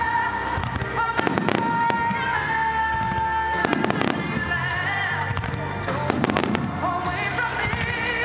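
Starmine fireworks shells bursting in a dense barrage, a sharp bang every second or two, over a slow ballad with long held notes.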